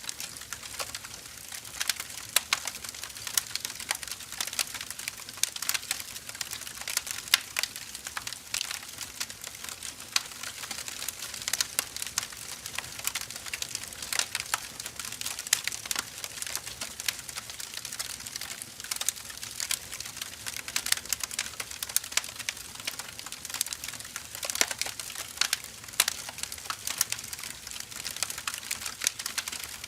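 Burning firewood crackling: irregular sharp pops and snaps over a steady hiss of the fire.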